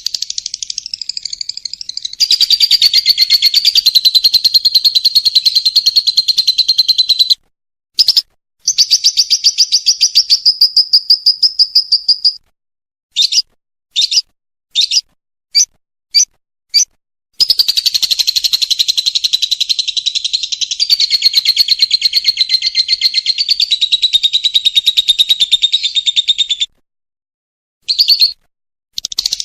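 Lovebird 'ngekek' song: long, loud, rapid rattling trills, broken by short silent gaps, with a string of several short bursts midway before another long trill.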